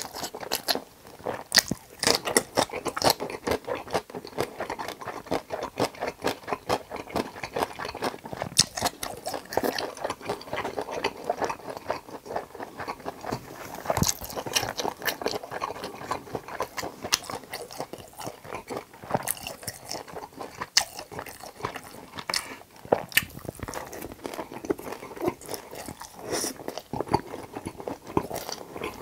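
Close-miked chewing and biting of battered fried pork (cheese tangsuyuk) in sauce: a steady, irregular run of crunches and bites.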